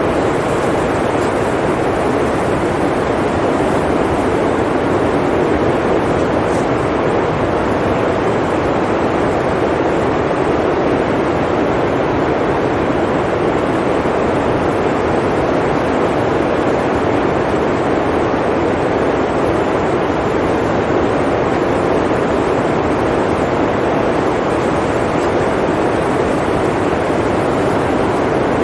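Blizzard wind: a loud, steady rushing noise that stays even throughout, with no gusts or breaks.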